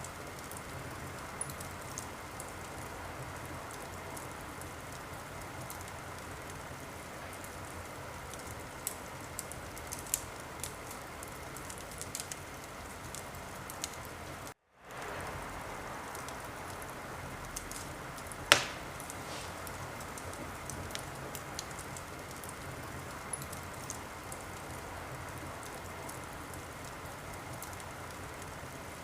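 Wood fire in a fireplace burning with a steady hiss and scattered small crackles, one loud pop about two-thirds of the way through. The sound drops out for a split second about halfway.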